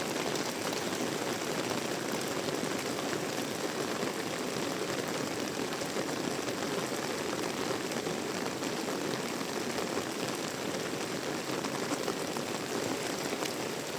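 Heavy tropical rain falling steadily: an even, unbroken hiss of rain.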